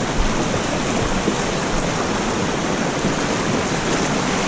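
Steady rush of fast-flowing river water, swollen after rain.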